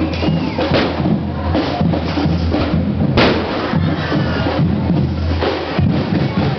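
Procession drums beating, with bass drum and snare over a steady low music bed. A sharp crack cuts through about three seconds in.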